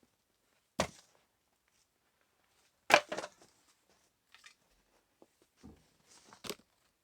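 A series of sharp knocks and clatters: two loud hits about two seconds apart, the second with a brief rattle after it, then a few fainter taps.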